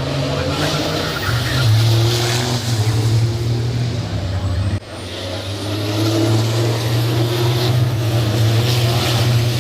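Race trucks' diesel engines running steadily, with voices in the background and a brief drop in sound about halfway through.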